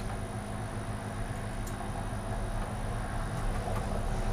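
A steady low electrical hum runs throughout, with a few faint small clicks, likely a screw being driven into a computer case.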